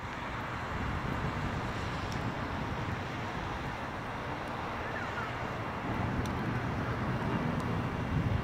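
Steady outdoor background noise: a low rumble with a hiss over it, the rumble growing a little about six seconds in.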